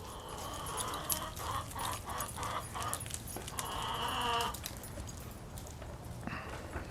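Faint animal calls: a short pitched call about half a second in and another about four seconds in, over scattered light clicks.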